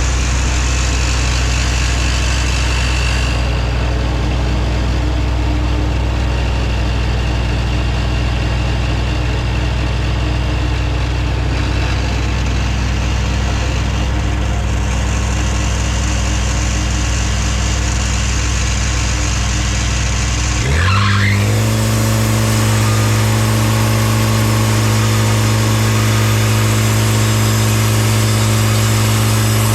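Sawmill engine running steadily at a low speed, then throttled up about two-thirds of the way through: its pitch rises over about a second and holds at a higher, steady speed.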